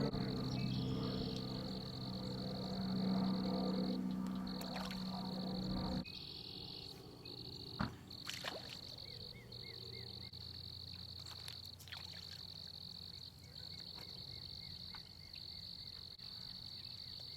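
Background music with a low droning tone plays for about the first six seconds, then stops suddenly. Behind it and afterwards, a frog chorus at the pond keeps up a high, steady trill in long stretches broken by short pauses, with a few faint clicks and taps around the middle.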